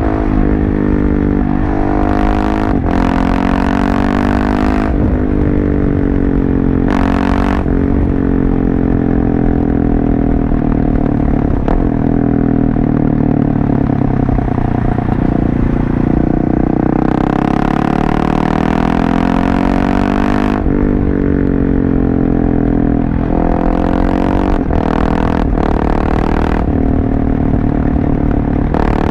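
Husqvarna 701 Supermoto's single-cylinder engine through a LeoVince aftermarket exhaust, riding. The engine pitch climbs and drops again and again as the throttle opens and closes.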